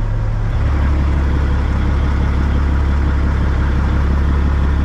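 Peterbilt 379's turbocharged diesel engine running with a steady deep drone that grows stronger about half a second in.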